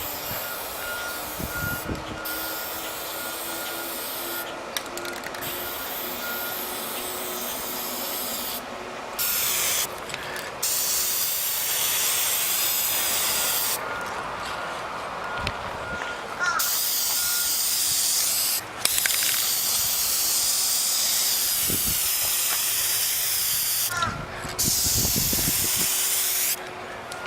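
Krylon aerosol spray-paint can spraying in repeated bursts: a sharp, even hiss that switches on and off. One short burst comes first, then longer ones of several seconds each.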